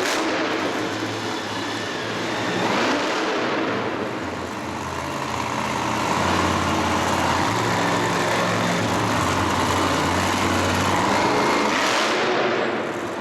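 A loud vehicle engine running hard and revving up and down, with sharp rises in pitch about three seconds in and again near the end.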